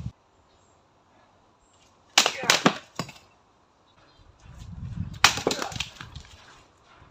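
Dry wooden boards cracking and splintering as they are broken by karate strikes: two bursts of several sharp cracks, the first about two seconds in and the second about five seconds in.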